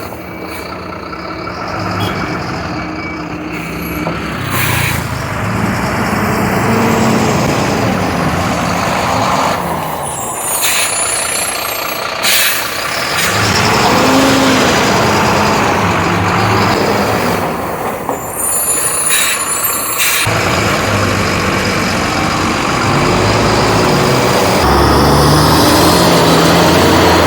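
BharatBenz 12-wheel tipper truck's diesel engine running and revving up and down during unloading. Short high-pitched air-brake hisses and squeals come about ten seconds in and again near twenty seconds.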